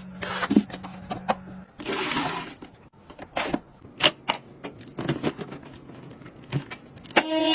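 Clicks and knocks of small household objects being handled, over a low hum that stops after about a second and a half; a loud steady whirring starts near the end.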